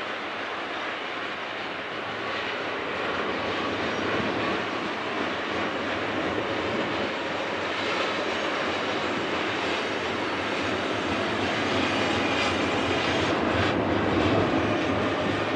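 Double-stack intermodal well cars of a freight train rolling past, a steady rumble and clatter of steel wheels on rail that grows gradually louder. Only cars pass; there is no locomotive in this part of the train.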